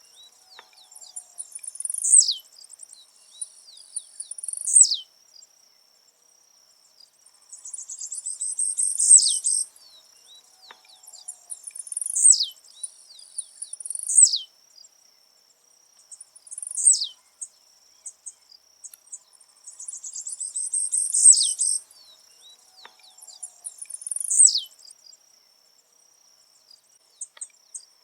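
Blue-black grassquit (tiziu) singing: short, high, buzzy phrases, most ending in a quick down-slurred note, repeated about every two to three seconds, with a few longer buzzy phrases.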